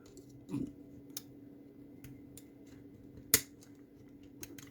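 Small scattered clicks and taps of metal tweezers working a crimped wire terminal loose from a plastic fusebox connector, with one sharp click a little over three seconds in. A faint steady hum runs underneath.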